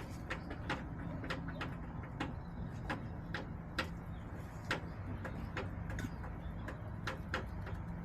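Chickens pecking at a hard surface: irregular sharp taps, a few a second, over a steady low hum.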